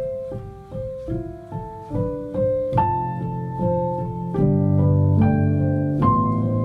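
Background piano music: a calm melody of single notes over sustained chords, getting fuller from about the middle on.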